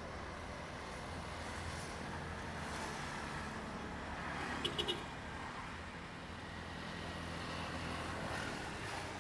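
Distant road traffic and vehicle hum, swelling and easing gently, with three quick high beeps a little before the middle.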